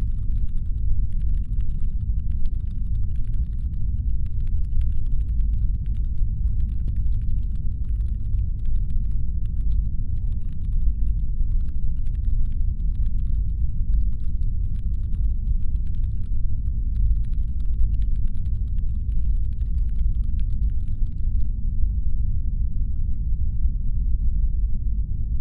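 Constant deep brown noise, a rumbling hum standing in for a spaceship's engines. Over it runs faint, quick clicking in short runs, which stops about 21 seconds in.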